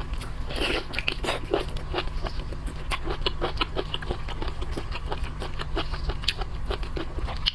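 A person chewing and biting seafood close to the microphone: wet, irregular clicks and crunches, several a second.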